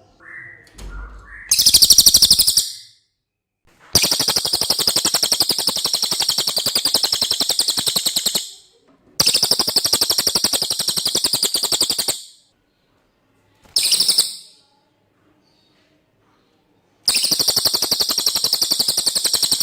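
Cililin songbird singing in long, very rapid, high-pitched trills of about three to four seconds each, with short pauses between them and one brief trill in the middle.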